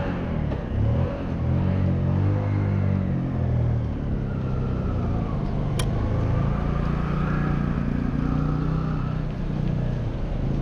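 Street traffic: motor vehicle engines running and passing close by, their pitch rising and falling, over a steady hiss. A single sharp click about six seconds in.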